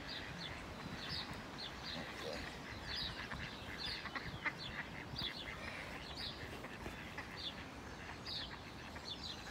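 Birds calling: short, sharp high calls, two or three a second at irregular spacing, over a steady outdoor background hiss.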